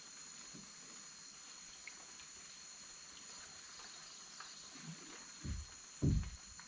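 Steady high-pitched drone of rainforest insects, with faint watery trickling, and two low thumps near the end, the second louder.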